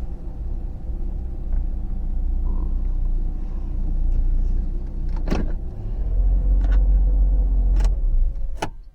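Car driving, a steady low rumble that swells about six seconds in, with three sharp clicks in the last few seconds.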